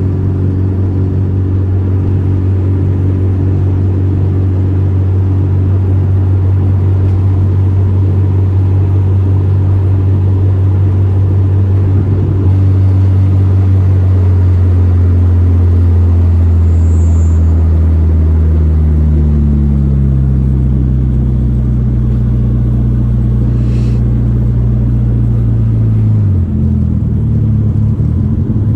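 Volkswagen Gol G4 Rallye's four-cylinder engine running under way with a deep, steady drone. About halfway through its pitch begins to sink slowly, and it drops suddenly about two seconds before the end.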